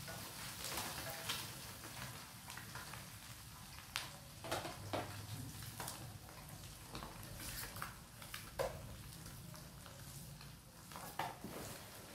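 Boiled quail eggs frying in a pan with a faint sizzle, and scattered clinks and scrapes of a utensil stirring them against the pan.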